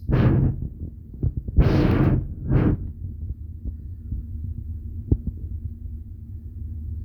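Ship's engine drone aboard a ferry, a low steady throb. Three short rushing bursts of noise come in the first three seconds.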